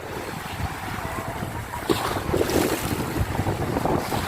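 Sea waves breaking and washing on a beach, with wind buffeting the microphone; the surf grows louder about two seconds in.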